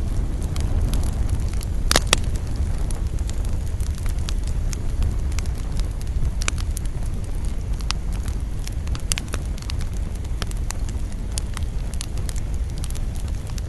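Campfire burning: wood crackling with scattered sharp pops over a steady low rumble, the loudest pops about two seconds in.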